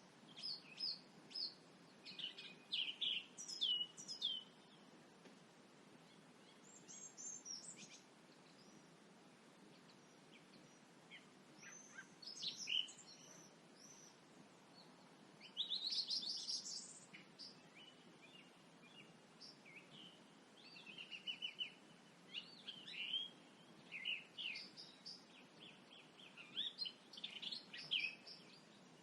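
Several songbirds singing and chirping at dusk in bursts of short, high phrases with brief pauses between, over a faint steady background hum.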